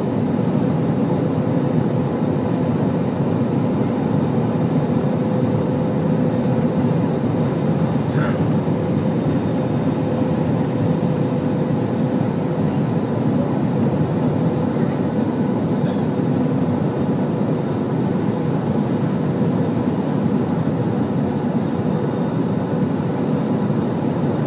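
Airliner cabin noise: a steady rumble with a constant hum running through it, and a brief high squeak about eight seconds in.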